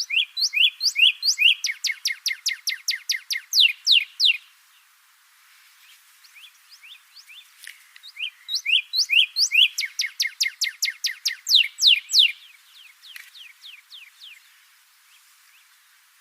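Northern cardinal singing: two loud phrases of clear slurred whistles, each opening with a few rising notes and then a fast run of falling ones, separated by a few seconds. A fainter run of falling notes follows the second phrase.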